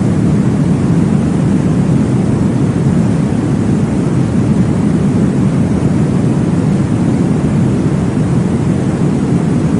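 Steady, deep rushing noise without breaks or rhythm: a womb-sound track imitating the whoosh of blood flow, played as white noise for baby sleep.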